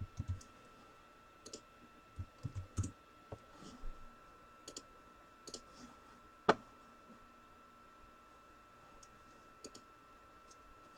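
Sparse light clicks and taps, with one sharper click about six and a half seconds in, over a faint steady high-pitched hum.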